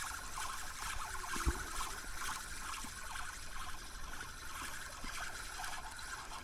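Underwater ambience heard by a diver's camera: a dense, steady crackle over a low rumble, with one dull knock about a second and a half in.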